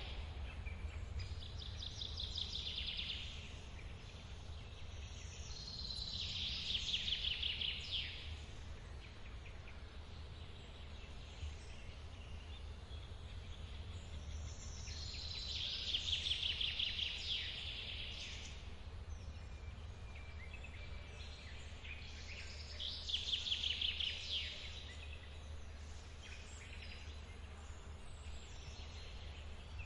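Steady low rumble of a forest waterfall, with a bird singing a fast trilled phrase five times, about every seven seconds.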